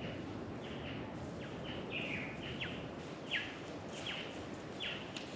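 Birds calling: a string of short, high chirps, each dropping quickly in pitch, two or three a second, over a steady low background hiss.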